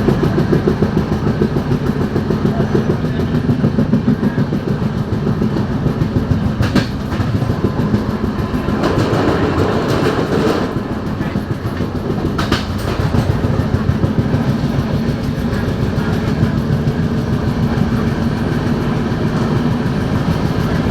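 Train running along the track, a steady rumble with a fast, even rattle of wheels and carriages, and a few sharp clicks and a brief louder clatter about halfway through.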